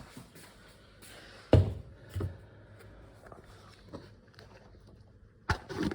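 Supplement containers and a spoon being handled: a sharp knock about a second and a half in, a softer one just after, then a few quick clicks near the end.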